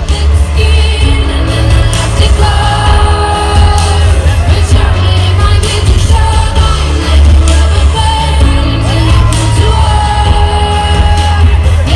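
Live pop concert: a singer's held vocal lines over a heavy, steady bass, played loud through the venue's sound system.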